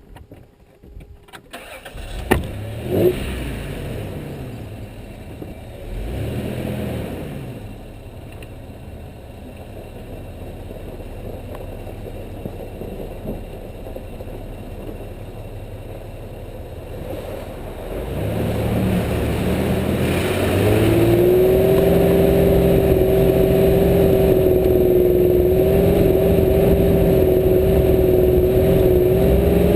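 Off-road vehicle's engine starting about two seconds in and revving briefly twice, then running steadily. From about eighteen seconds it revs up and holds at higher revs with a steady whine.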